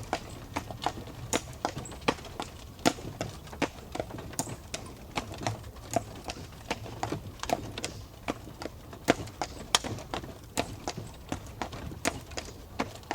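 Hooves of a team of four horses clip-clopping at a walk, drawing a stagecoach, with a low rumble of the coach underneath. The knocks come several a second in an uneven rhythm.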